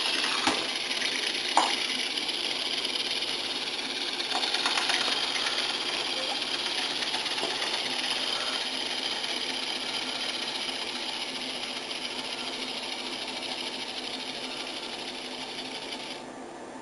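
Water running steadily, with a couple of sharp knocks in the first two seconds; it shuts off suddenly near the end.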